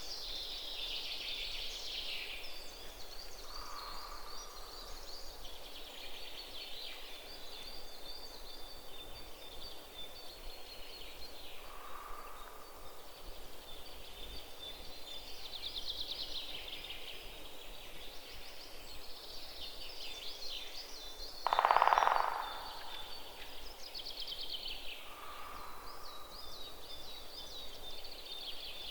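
Countryside ambience: constant high-pitched chirping and trilling of wild creatures, with a few short mid-pitched calls and one louder call lasting about a second, three-quarters of the way through.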